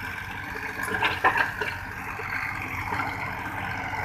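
Hitachi 50 mini excavator's three-cylinder engine idling steadily, with a few faint knocks about a second in.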